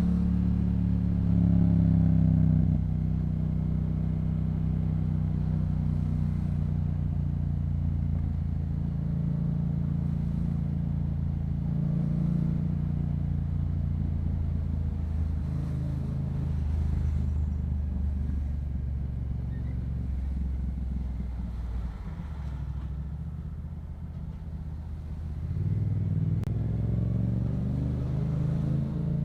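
Yamaha MT-07's parallel-twin engine through a Yoshimura exhaust, running at low speed in traffic. The revs rise briefly about two seconds in, ease off, then rise again near the end.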